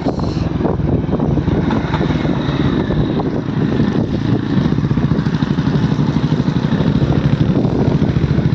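Motorcycle engine running steadily, with a fast, even beat of exhaust pulses.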